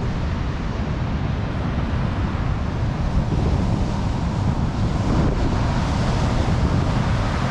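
Strong wind buffeting the microphone: a steady, loud rushing noise, heaviest in the low rumble.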